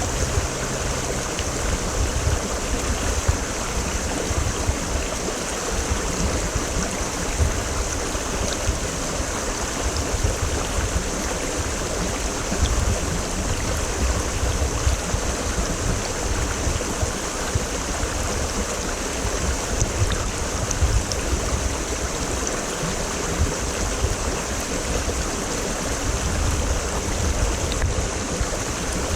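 Mountain stream (quebrada) running over rocks, a steady rushing and gurgling of flowing water with a deep rumble underneath.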